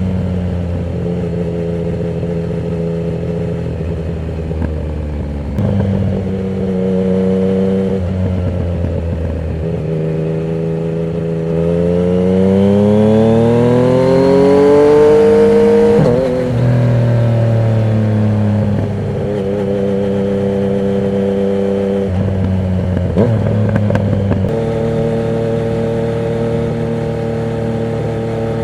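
Yamaha MT-09 inline three-cylinder engine running through a Termignoni exhaust with no dB killer, under way with the pitch stepping up and down as the throttle changes. About twelve seconds in it pulls hard in one long rising sweep for about four seconds, then drops off sharply.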